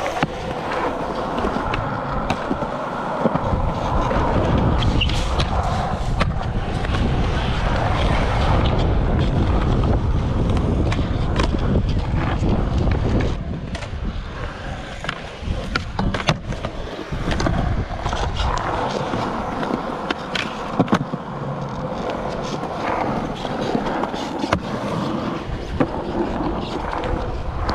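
Skateboard wheels rolling on concrete with a steady low rumble, broken by sharp clacks of board pops and landings scattered throughout.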